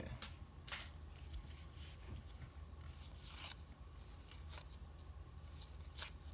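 Faint sliding and rubbing of 1990 Leaf baseball cards as they are flipped through one at a time, with a few short scratchy strokes, the clearest about three and a half and six seconds in.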